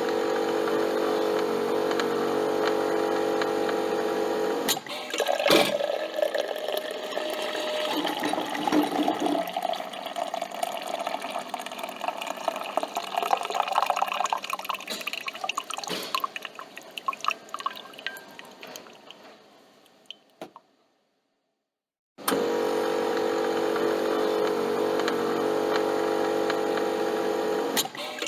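Coffee machine's motor humming steadily, cutting off with a click after about five seconds, then coffee pouring and dripping into the cup, thinning out and stopping. After a short silence the motor hum starts again.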